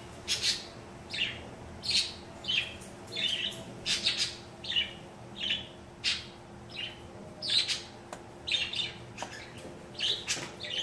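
A bird calling loudly, short harsh squawks repeated over and over, about every two-thirds of a second.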